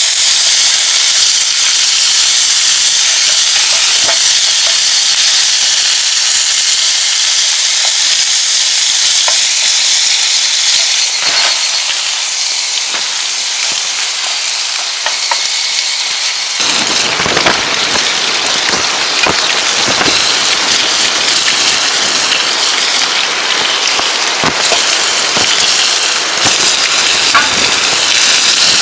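Food sizzling in a pan, a steady high hiss with scattered small pops. About seventeen seconds in, a lower rushing noise suddenly joins it.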